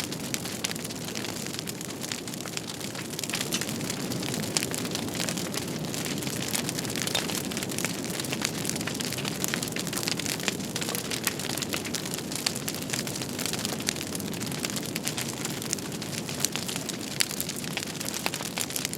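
Fireplace fire crackling: a steady hiss with frequent small pops and snaps throughout.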